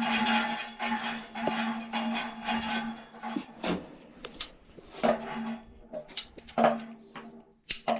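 Pipe fittings and hand tools being handled while threaded joints are doped and assembled: scraping and rustling for the first few seconds, then a series of light metallic clicks and knocks. A steady low hum runs underneath.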